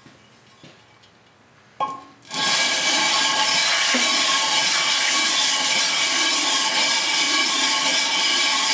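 A handheld rotary tool starts up about two seconds in and then runs steadily at high speed: a loud, even whine with hiss. It is blending weld into the inside of an aluminium motorcycle crankcase.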